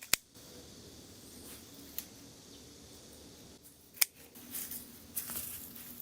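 Sharp snips of hand pruning shears cutting plant stems: one just after the start, a faint one about two seconds in and another about four seconds in, followed by rustling of leaves and stems.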